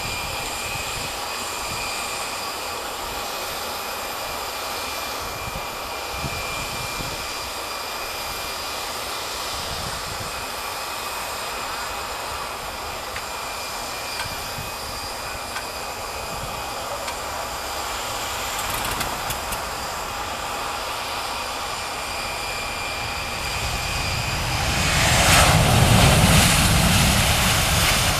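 Boeing 737-700 jet's CFM56 turbofan engines: a steady high whine with a rushing noise, growing much louder about 24 seconds in as the airliner passes close, the rushing sound sweeping down and back up as it goes by.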